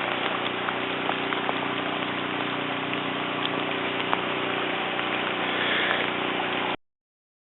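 Swollen backyard stream in flood, rushing water making a steady noise; it cuts off abruptly near the end.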